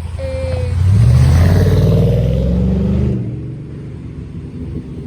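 A road vehicle accelerating past, its engine pitch rising steadily for about two seconds before it fades away.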